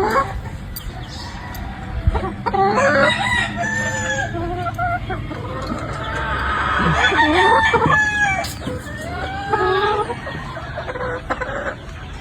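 Gamefowl roosters crowing: two long crows about two seconds in and again past the middle, then a shorter one, with some clucking between.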